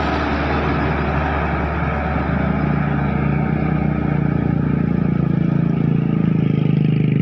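Heavy bus's diesel engine running close by, a steady low engine note that grows louder and fuller from about two seconds in as the bus comes up.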